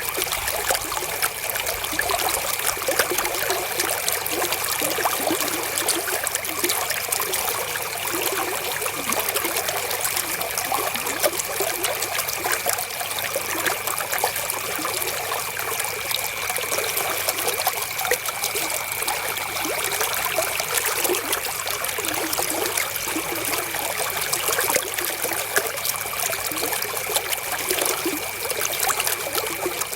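River water flowing over stones, a steady trickling and splashing without let-up.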